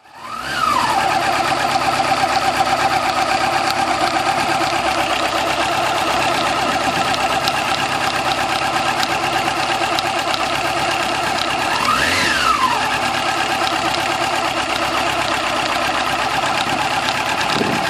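Yamaha YZF-R6 600 cc inline-four motorcycle engine idling steadily, blipped once just after it starts sounding and again about twelve seconds in, the revs rising and falling quickly each time. This is the idle that carried a tick which the owner traced to the cam chain tensioner.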